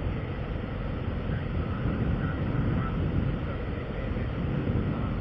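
Steady low rumble of vehicle and road noise outdoors, with some wind on the microphone.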